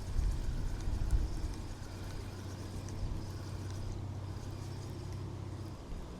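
A low, steady engine hum that cuts off shortly before the end, with gusts of wind buffeting the microphone in the first second or so.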